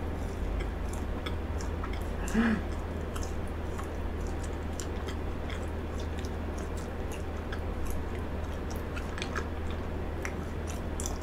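Close-miked chewing of a bite of frozen cheesecake: many small wet mouth clicks and smacks throughout. There is one short hum of the voice about two seconds in.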